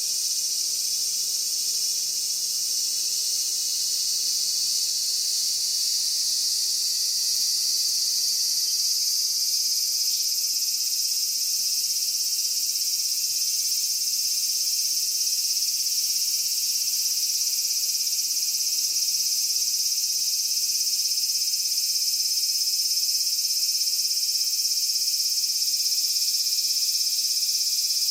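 Steady, dense chorus of insects shrilling at a high pitch, unbroken throughout.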